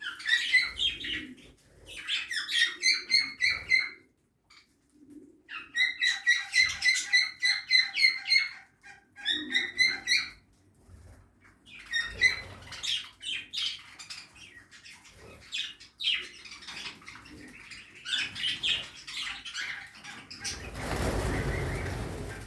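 Budgerigars chirping in quick trains of sharp, repeated notes, about five a second, in several bursts with scattered single chirps between. Near the end a broad rushing noise lasts about two seconds.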